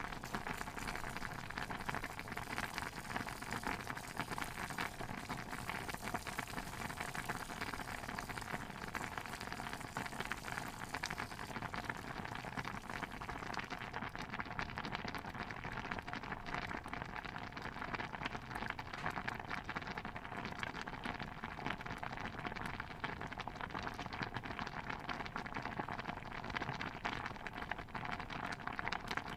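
A pot of stew bubbling steadily, with a thick, continuous pattering of small pops. The highest hiss drops away about halfway through.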